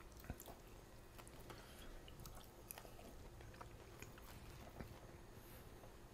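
Faint chewing of a mouthful of fried fish, with a few small clicks of a metal fork against a plate, barely above room tone.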